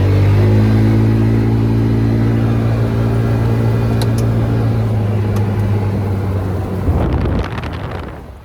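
Vehicle engine running steadily while driving, then dropping away in the last second or so.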